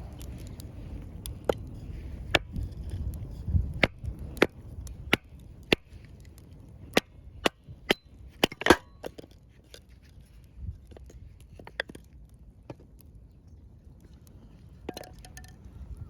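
Scrap wood burning in a campfire, crackling and popping with sharp, irregular pops, the loudest cluster about nine seconds in, thinning out to occasional pops after that.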